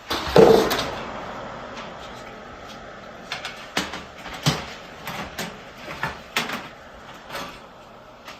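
Eruption powders being stirred together in a container: a loud scraping rush about half a second in that fades, then a series of irregular knocks and clicks as the stirrer hits the sides.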